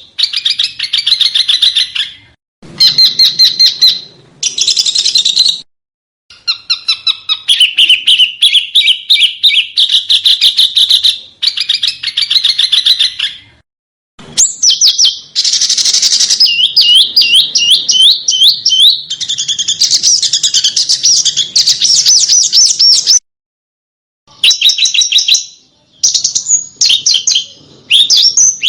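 Small songbirds singing sharp, rapid chattering phrases: fast trills of high chirps and quick up-and-down sweeps. The song comes in spliced segments, broken by several short gaps of complete silence.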